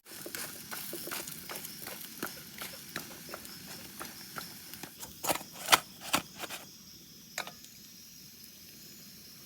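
A run of irregular clicks and knocks, a few louder ones about five to six seconds in, then a quiet steady background with faint high-pitched steady tones.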